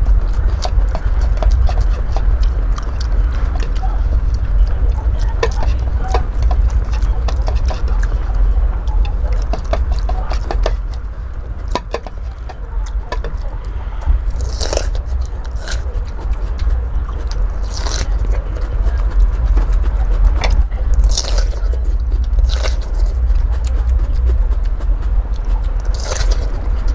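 Someone chewing raw bitter melon close to the microphone: many small crisp crunching clicks, with a handful of sharper crunches in the second half. A steady low rumble runs underneath.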